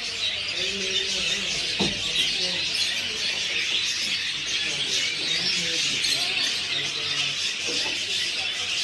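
Many caged birds chirping and chattering at once, a dense steady din, with faint voices underneath and a single knock about two seconds in.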